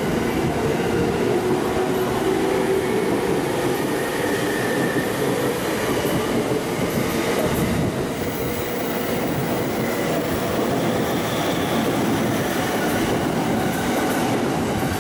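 JR E231-series 1000 commuter train pulling out of the platform, its cars rolling past with steady wheel-on-rail rumble and clatter.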